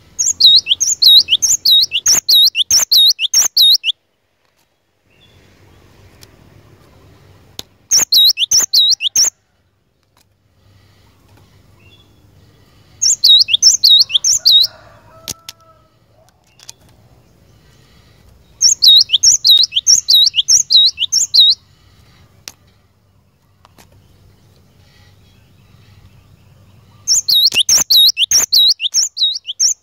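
Cinereous tit (glatik batu) singing in five bursts of fast, high repeated notes, about four a second. Each burst lasts one to four seconds, with pauses between them.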